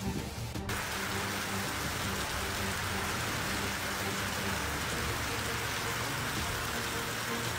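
Heavy rain pouring down in a dense, steady hiss that starts abruptly about a second in.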